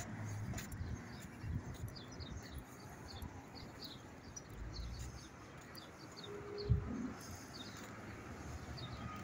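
Small birds chirping repeatedly with short, high notes, over a low outdoor rumble, with a single dull thump about two-thirds of the way through.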